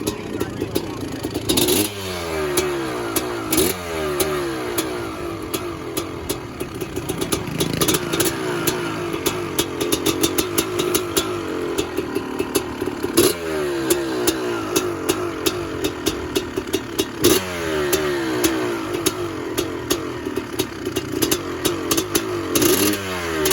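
Honda CR500 two-stroke single-cylinder dirt bike engine running, its throttle blipped about five times into quick revs that fall back each time to a rattly, popping idle.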